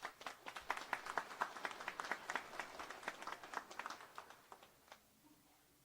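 Audience applauding, dense clapping that thins out and fades about five seconds in.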